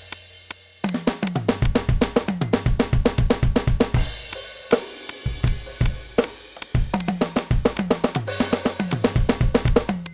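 NUX DM-8 electronic drum kit played through its sound module: fast patterns and fills of bass drum, snare, toms, hi-hat and cymbals. A cymbal rings out and fades at the start, the playing comes back in about a second in, and it stops right at the end.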